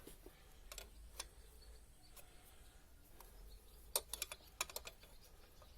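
Faint light metallic clicks and taps from a wrench tightening a diesel fuel-line fitting at a common rail injector: a few scattered clicks, then a quick run of about six about four seconds in, over a low hum.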